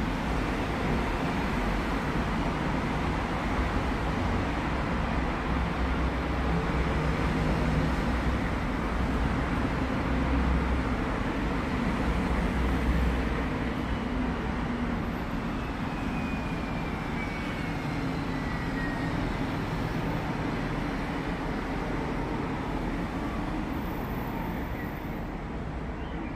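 Thunderstorm: steady storm noise with a low rumble of thunder that swells about ten seconds in and slowly fades.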